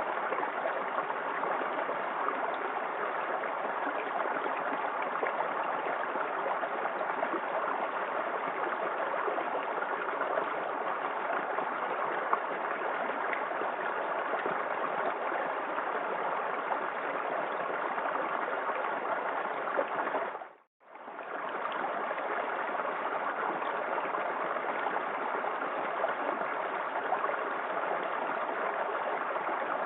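A small waterfall in a forest creek, a steady rush and gurgle of falling water. About two-thirds of the way through it cuts out for a moment and fades back in.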